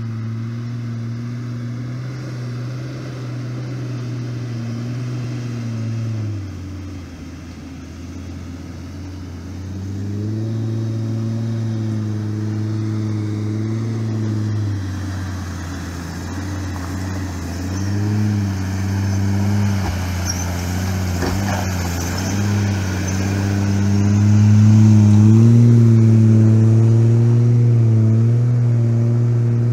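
Four-wheel-drive vehicle engine labouring up a steep rocky climb, its pitch stepping up and down with the throttle. It grows louder toward the end, with a few sharp knocks about two-thirds of the way through.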